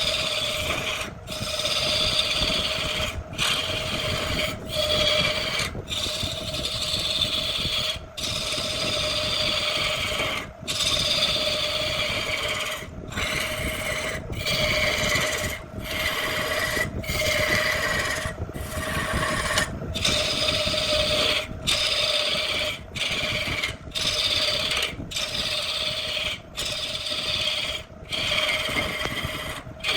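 A tool scraping and rasping on wood in repeated strokes, with short breaks about every one to two seconds, over a steady hum.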